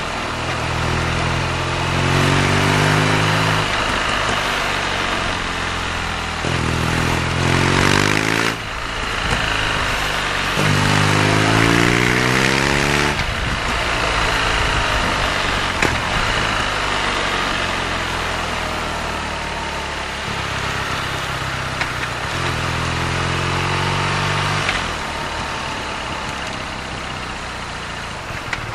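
BMW R nineT's 1170 cc boxer twin engine under way, pulling up in pitch through a gear several times, each run cut short by a drop at the shift, with steadier cruising stretches between.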